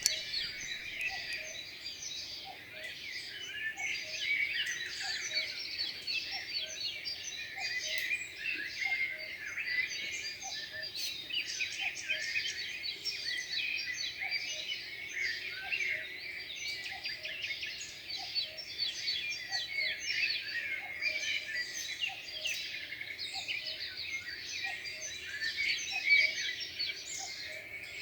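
Dense chorus of many birds chirping and twittering, overlapping without pause, with a faint lower note repeating steadily beneath it.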